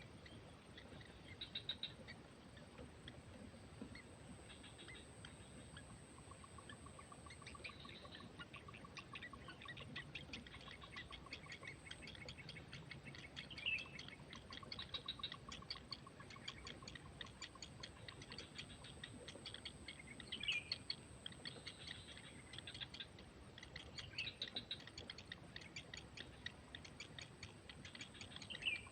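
Faint bird chirps, short rising and falling calls repeated every few seconds, over a dense, fast, high ticking and a thin steady high tone.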